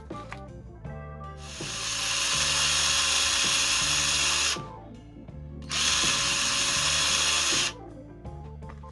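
A small handheld power tool run twice, for about three seconds and then about two seconds, giving a loud, even hiss that starts and stops cleanly each time.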